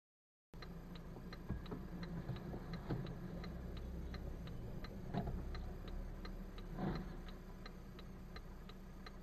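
Steady, even ticking, about three ticks a second, over a low rumble. It starts abruptly about half a second in.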